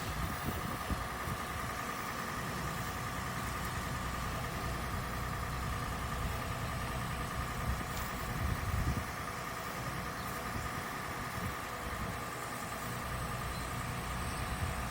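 Car engine idling steadily, with an uneven low rumble underneath.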